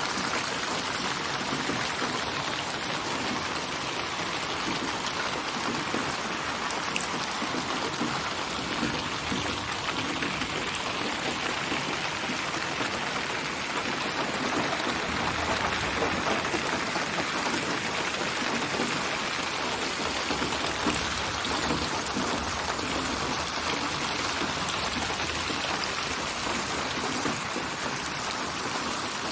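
Steady rain falling, an even dense patter of drops on a surface.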